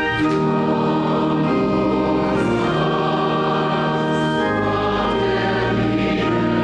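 Voices singing a hymn with organ accompaniment, in slow sustained chords that change every second or two over a low bass line.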